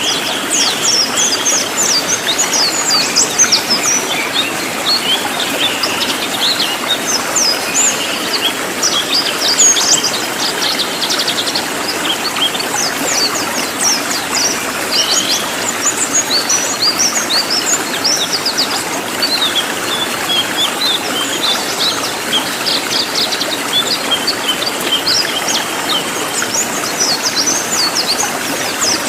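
Cililin songbird singing loud, rapid, densely packed chirps: runs of short, sharply falling high notes with hardly a break, over a steady background hiss.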